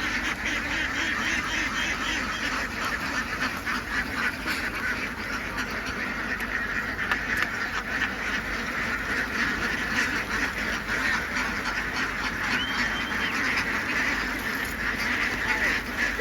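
A large flock of domestic ducks quacking all at once: a dense, continuous din of overlapping calls.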